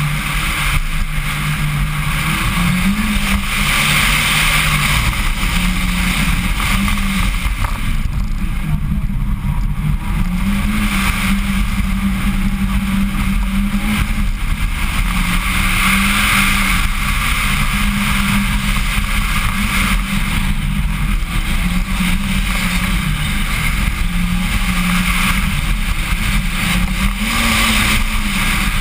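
Mitsubishi Lancer Evo X's turbocharged 2.0-litre four-cylinder engine driven hard, heard from inside the car, its revs repeatedly climbing and dropping back through gear changes.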